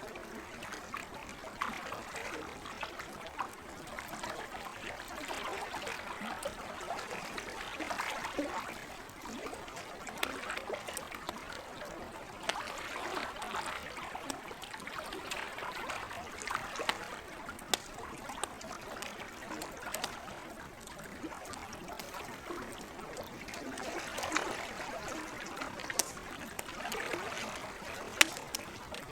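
Campfire crackling with scattered sharp pops, one louder pop near the end, over a steady trickle of lake water.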